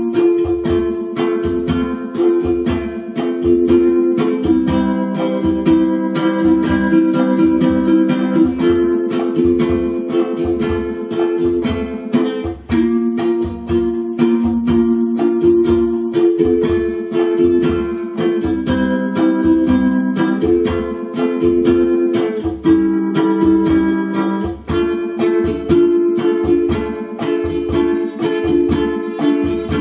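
Ukulele strummed in a steady rhythm of about two strokes a second, with the chords changing every few seconds.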